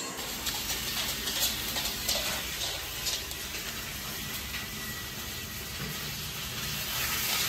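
Sausages frying in a pan: a steady sizzle with faint scattered crackles.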